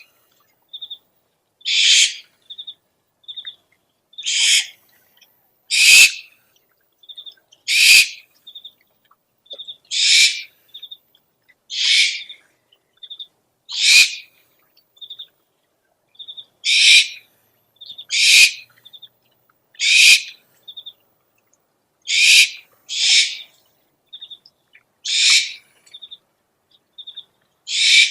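Owl calls: a harsh, hissing screech of about half a second, repeated roughly every two seconds, with short high chirps in twos and threes between the screeches.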